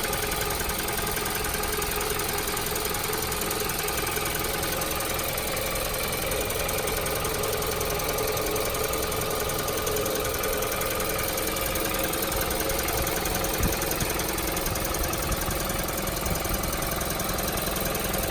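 Early 60-series Toyota Noah engine idling steadily with a fast, even ticking on top: the abnormal engine noise the owner is chasing, which an S-FV oil additive has not cured.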